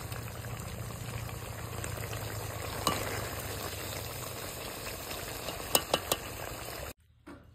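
Chicken pieces sizzling as they fry in a large metal pot while being stirred with a flat metal spatula, which clicks sharply against the pot once about three seconds in and three times in quick succession near the end. The sizzling stops abruptly just before the end.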